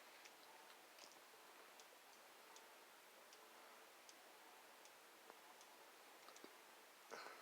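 Near silence, with a faint ceiling fan ticking about once every three-quarters of a second as it turns, and a brief rustle near the end.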